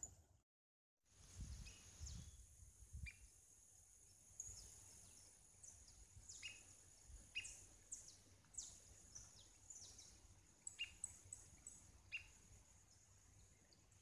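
Faint birdsong: short, high chirps that slide downward, repeated every second or so, over a steady high-pitched hum. A few low bumps on the microphone come about two seconds in.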